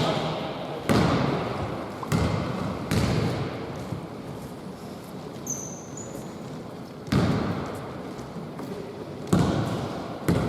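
A basketball bouncing on an indoor court: about six irregular thuds, each trailing off in the echo of the hall, with a brief high squeak about halfway through.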